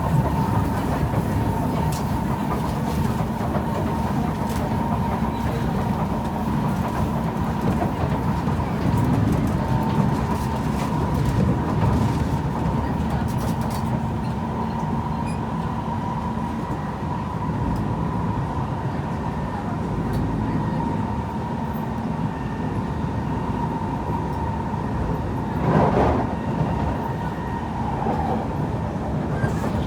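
A Kawasaki C151 electric multiple unit running at speed, heard on board: a steady rumble of wheels on the rails under a constant whine, with scattered light clicks. There is a brief louder swell about 26 seconds in.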